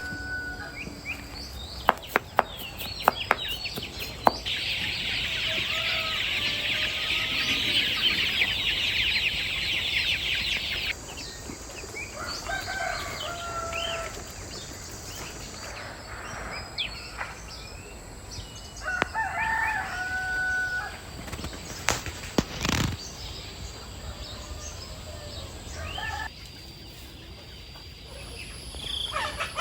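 Chickens clucking with a rooster crowing in drawn-out calls. From about four to eleven seconds in there is a dense high buzzing, and a few sharp clicks come just before it.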